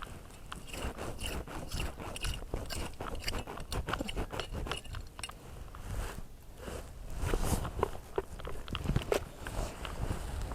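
Gritty scraping and crunching of beach sand and shells, dug through by hand for hard clams, as a quick irregular run of short clicks and scrapes.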